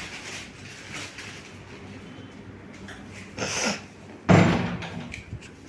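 A short hissy rustle about three and a half seconds in, then a sudden loud thud like a door or cupboard shutting.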